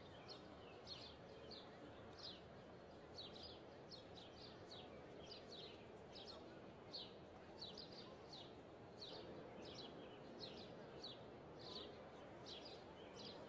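Small birds chirping: a steady run of short, falling chirps, roughly three every two seconds, over a faint steady background hiss.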